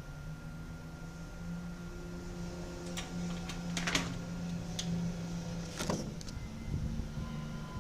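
A low, steady droning hum with faint higher overtones, the unexplained 'strange noise' the uploader reports hearing in the sky. It shifts slightly in pitch near the end. A few short crackles or clicks sound over it about halfway through.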